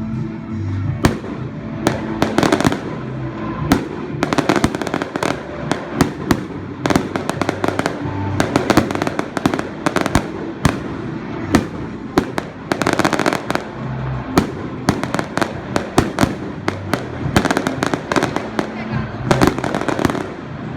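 Fireworks going off in rapid, irregular succession: many sharp bangs and crackling reports, several a second, with a denser cluster about two to three seconds in and again around thirteen seconds.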